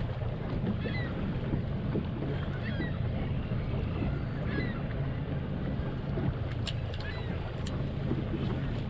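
Boat motor running steadily at slow trolling speed, a low even hum, with wind and water noise. Short high chirps come and go throughout, and a few sharp clicks sound near the end.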